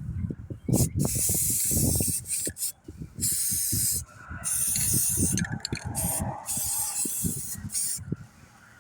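Rust-treatment primer sprayed from a spray can onto a rusty boat bow pulpit, hissing in several bursts of about a second each with short pauses between. Low rumbling knocks run underneath.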